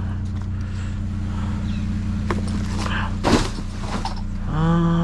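Truck engine idling steadily, with a single knock about three seconds in and a short, steady pitched tone near the end.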